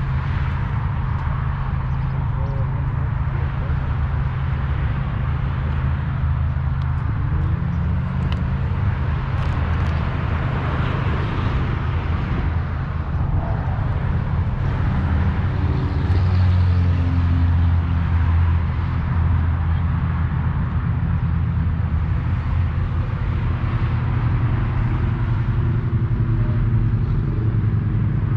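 A car engine running at low revs, a deep steady rumble that grows a little louder about halfway through.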